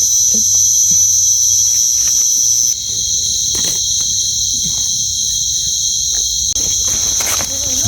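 Loud, steady, shrill chorus of night insects such as crickets, its pitch shifting slightly about three seconds in, with faint scattered rustles and clicks underneath.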